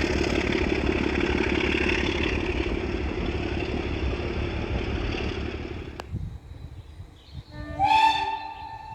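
A train running, a loud rumble with a steady hum that fades over about six seconds. After a sudden break, a train whistle sounds once for about a second near the end.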